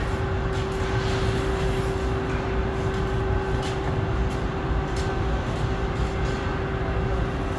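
Steady machine hum: one constant tone over a low rumble, with a few faint ticks.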